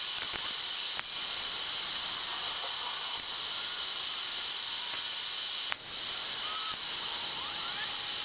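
Arc welding on a steel fog light bracket: the arc gives a steady hissing sizzle, broken by a couple of abrupt cuts.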